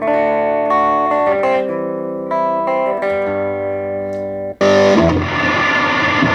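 Electric guitar through a Positive Grid Reactor 50 combo amp on a clean preset, playing a run of ringing single notes and chords. About four and a half seconds in the tone cuts abruptly to a harsh, heavily distorted high-gain sound, raunchy and nasty with no noise gate on.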